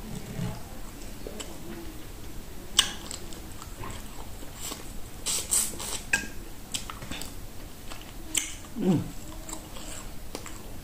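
Close-up mouth sounds of a person biting and chewing meat off bones: irregular wet clicks, smacks and crunches.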